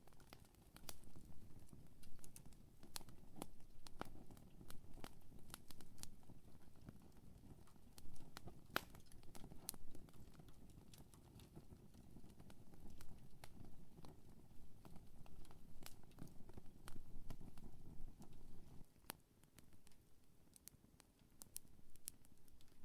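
Wood campfire crackling: irregular sharp pops and snaps scattered throughout, over a low steady rush.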